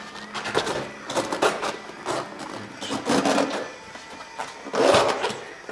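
Rubber rubbing, rustling and knocking as a slightly inflated inner tube is worked by hand into a dirt bike tire, coming in irregular bursts.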